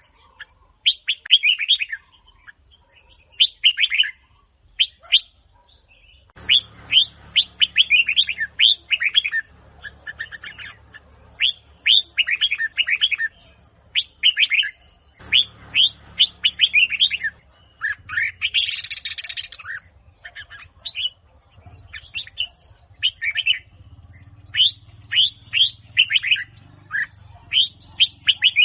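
Red-whiskered bulbul singing: short phrases of quick, bright whistled notes, repeated with brief pauses between them.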